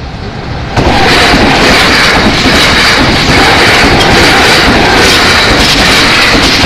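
Nankai electric express train passing close by at speed without stopping. It builds up as it approaches, then about a second in it jumps to a loud, steady rush of wheels on rail with fast clatter as the cars go by.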